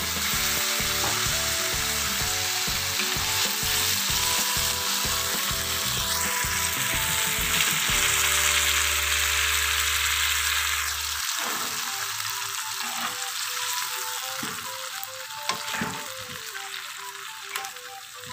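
Blended tomato sizzling as it fries in hot oil in a wok with sautéed shallots, garlic and spices; the sizzle eases off over the second half. Background music with a steady run of notes plays underneath, and a couple of knocks come near the end.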